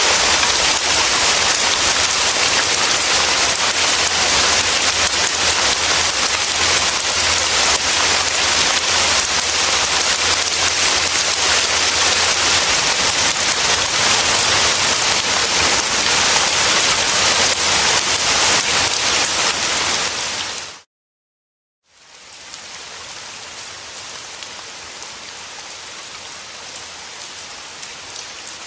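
Steady heavy rain hiss that fades out to silence about 21 seconds in, then fades back in as a noticeably softer rainfall.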